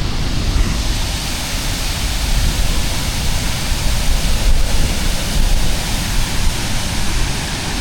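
Jagala Waterfall and its river rushing in a steady, even hiss of falling water, with a low, unsteady rumble underneath.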